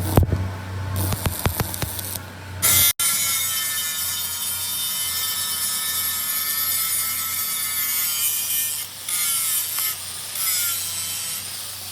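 A run of clicks and knocks, then steady scraping of a metal-cutting tool working on steel with a high, slightly wavering whine, dipping briefly twice near the end.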